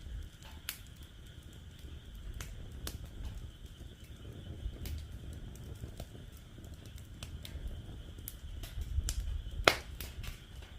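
Wood fire in a fire pit crackling, with irregular sharp pops, the loudest near the end, over a low rumble and a steady high-pitched background chorus.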